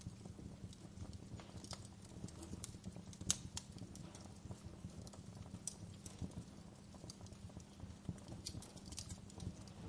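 Wood fire burning in a fireplace, with a low steady rumble of the flames and irregular sharp crackles and pops, the loudest pop about three seconds in.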